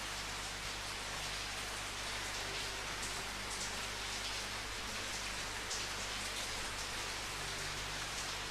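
Steady rainfall, an even hiss of rain with occasional louder individual drops.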